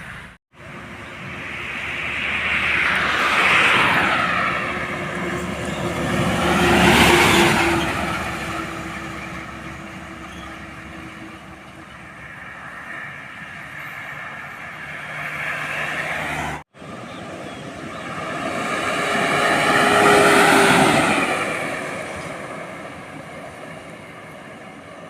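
Road vehicles passing close by one after another, each rising to a peak and then falling away, with the pitch dropping as it goes past. The sound breaks off abruptly twice.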